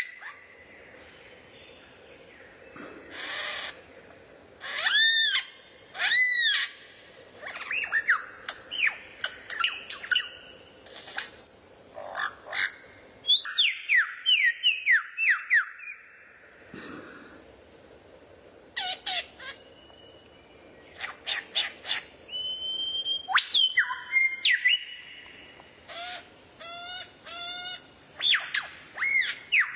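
Songbird calling and singing in separate short phrases: arched whistled notes, quick runs of down-slurred notes, a held whistle and fast trills, with short pauses between phrases and a faint recording hiss.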